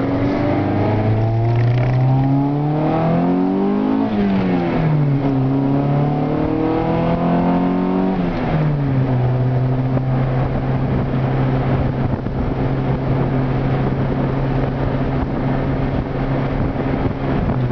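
A Honda Civic Si's D16Z6 1.6-litre SOHC VTEC four-cylinder accelerating through the gears, heard from inside the cabin. The engine note climbs for about four seconds and drops at an upshift, then climbs again. About eight seconds in it drops at a second upshift, and from there it holds a steady note at cruise.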